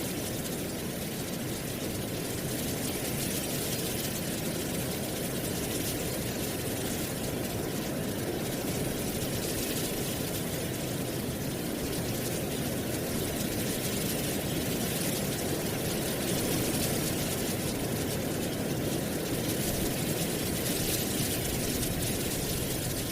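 Wind blowing through dry autumn leaves: a steady rustling hiss over a low rumble.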